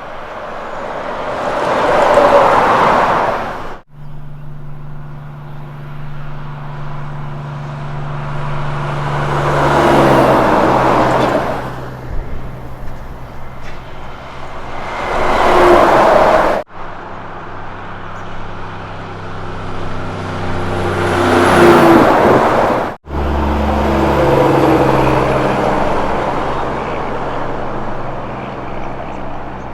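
Heavy Kenworth trucks driving past, four passes in all, each growing louder as it nears and fading as it goes by, with a steady engine drone under the tyre noise. The sound breaks off abruptly three times between clips.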